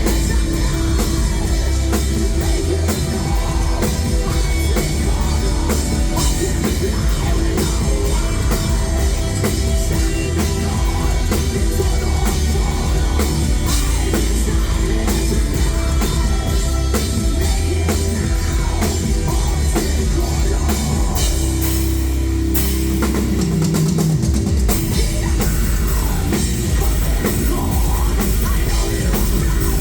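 Live heavy metal band playing loudly: distorted guitars, heavy bass and fast drum kit, with a brief shift in the riff a little past the middle.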